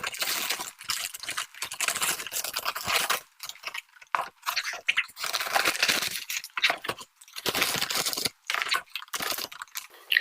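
Paper takeout packaging crinkling and rustling as it is handled, in irregular spurts with brief pauses.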